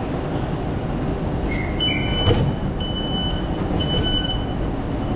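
Three short high electronic beeps about a second apart, a train's door warning, over the steady rumble of a Class 707 electric train at the platform. A single knock comes about two seconds in.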